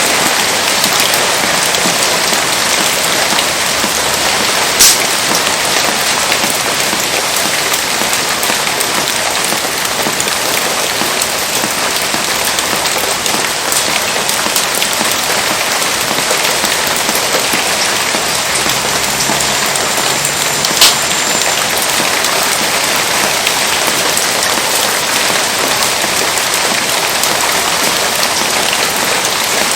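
Heavy rain falling steadily in a dense hiss, with two sharp pops, one about five seconds in and another about twenty-one seconds in.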